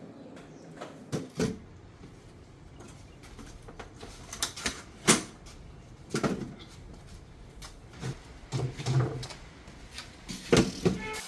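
A series of irregular knocks and clatters, the sharpest about five seconds in and a quick cluster near the end, over a steady low background.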